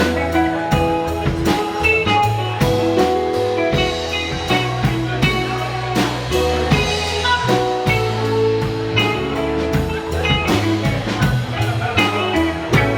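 A live rock band playing an instrumental jam: electric guitar lines over bass and a drum kit keeping a steady beat.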